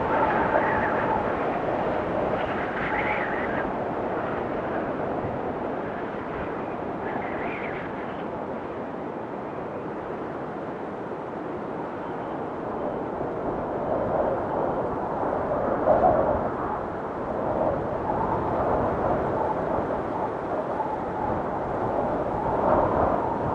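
Snowstorm wind blowing hard, a continuous rushing sound that eases a little in the middle and then builds again in gusts toward the end.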